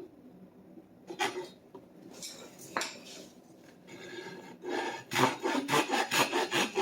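Hand saw cutting through a dry hickory stick: a few slow, uneven starting strokes, then from about five seconds in quick, steady back-and-forth strokes, about four a second.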